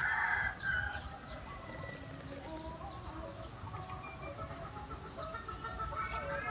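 Birds calling with chicken-like clucks, the loudest call right at the start and fainter calls scattered through the rest.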